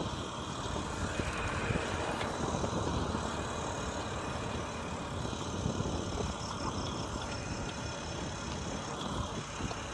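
Steady wind and road rumble while riding an e-bike, buffeting a head-worn microphone.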